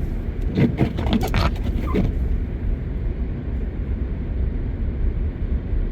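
Car driving slowly on a snowy road, heard from inside the cabin: a steady low rumble of engine and tyres.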